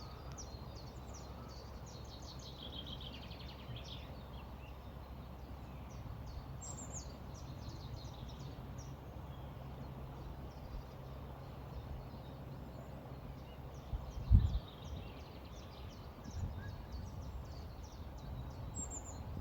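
Small birds chirping and twittering in quick, repeated high notes, with a couple of falling trills, over a steady low rumble. A single low thump about three-quarters of the way through is the loudest sound.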